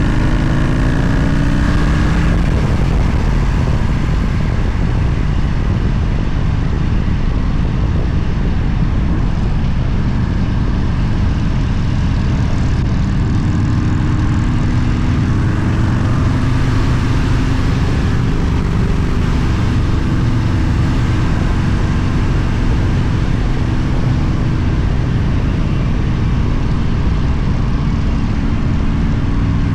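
Motorcycle engine running steadily under way over a constant rushing noise, its pitch climbing briefly near the start and again around the middle as it picks up revs.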